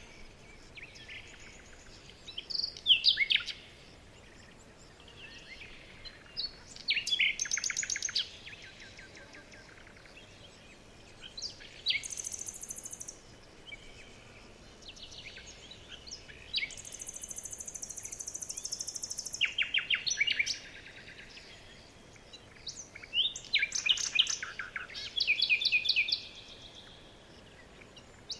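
Several songbirds singing in turn: phrases of rapid repeated chirps and trills, and twice a long, very high, thin trill, with short quieter gaps between the phrases.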